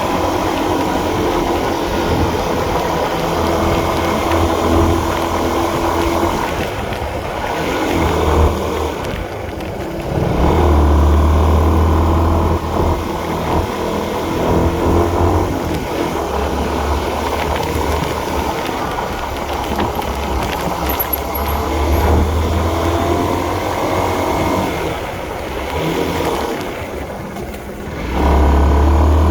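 Honda CB150R's single-cylinder engine running under way, the throttle opening and easing off, with a low rumble throughout. It eases off twice, about nine seconds in and again near the end, then picks up again.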